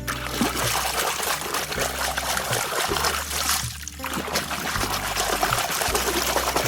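A steady rushing, pouring noise in two stretches with a short break just before the middle, over background music with a low bass line.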